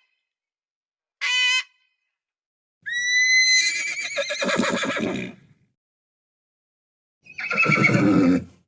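A horse neighing: a long whinny about three seconds in that starts as a high tone and breaks into a shaking, wavering call, then a shorter, lower neigh near the end. A brief high honk-like call comes about a second in.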